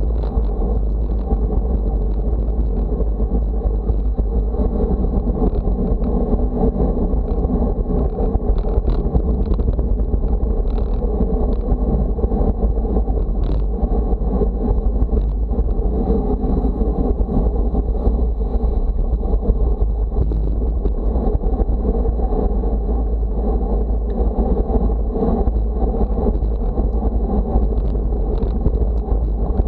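Steady, loud low rumble of wind buffeting the microphone, with road noise underneath and no breaks.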